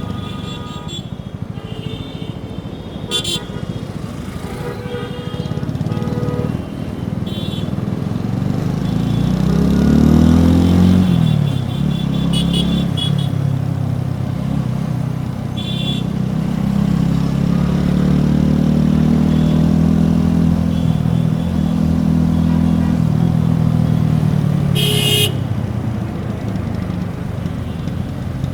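TVS Apache RTR 4V motorcycle's single-cylinder engine heard close at the exhaust, revving up through the gears. It climbs to a peak about ten seconds in, drops, climbs and holds again, then falls away. Vehicle horns honk in short bursts around it, the loudest near the end.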